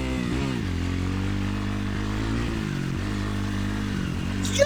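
Dirt bike engine running. The revs drop about half a second in, then it runs steadily at low revs, with a brief small rise in pitch around the middle.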